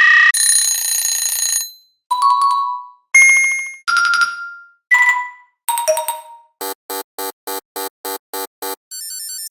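A string of short synthetic sound effects played one after another. First come several bright chime-like dings and tones, each fading out within about a second. Then a fast run of beeps, about three a second, and near the end a quick stepped bleeping pattern like an old video-game sound.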